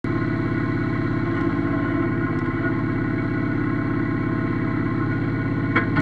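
Yanmar F16D mini tractor's diesel engine running steadily, with a brief click near the end.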